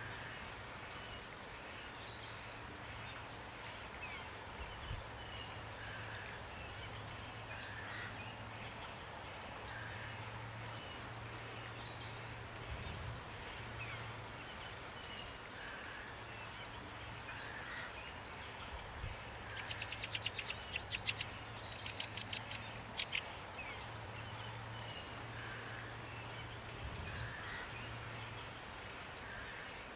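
Several birds singing in short, repeated high, falling phrases over a steady hiss of rain, with a burst of rapid rattling calls about twenty seconds in.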